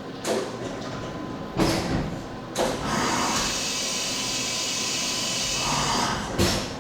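CNC milling machine at work on an aluminum billet part: a few sharp clunks, and between them a steady high hiss lasting about three and a half seconds.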